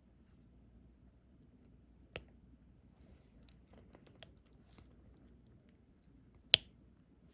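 Sharp clicks of a diamond painting pen and plastic resin drills being picked up and pressed onto the canvas: a click about two seconds in, a few faint ticks, then a louder click near the end.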